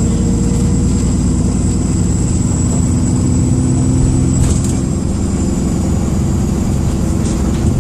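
Dennis Trident II bus engine running under way, heard from inside the bus, with a steady high-pitched turbo whistle over the low engine drone, like a kettle about to boil. The whistle dips slightly in pitch about halfway through and then holds.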